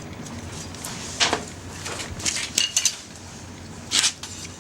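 Light metal clinks and short scrapes of utensils against a small stainless-steel campfire grill, a few scattered strokes with a brief metallic ring in the middle.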